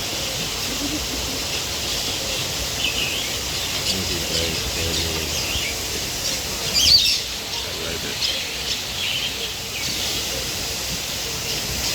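Birds chirping and calling: short, high calls scattered over a steady background hiss, the loudest about seven seconds in.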